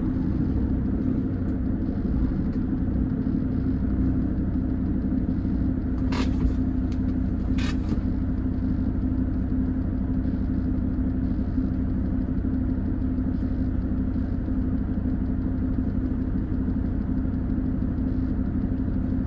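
Peterbilt 389 semi truck's diesel engine running steadily with road rumble, heard from inside the cab. Two brief noisy bursts come about a second and a half apart, near the middle.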